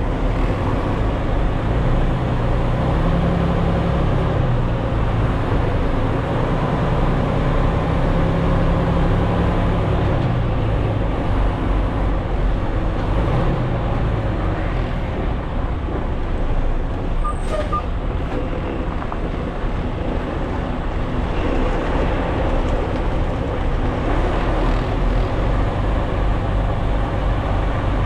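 Semi-truck diesel engine running at low speed while manoeuvring, a steady low rumble. A short sharp click about two-thirds of the way through.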